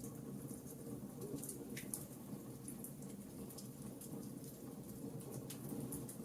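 Wood fire crackling in a fireplace: scattered sharp pops and snaps over a steady low background.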